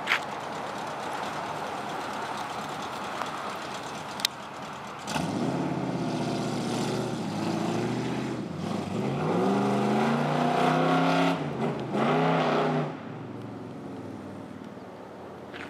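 1967 Ford Mustang's V8 engine pulling hard, its pitch dipping and then climbing as it accelerates, then cutting off sharply; a steady rushing noise comes before the engine takes over about five seconds in.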